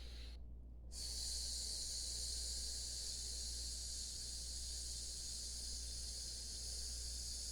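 A man exhaling a long, steady "sss" hiss through the teeth, the lung healing sound of the Taoist six healing sounds, starting about a second in, with a short breath before it.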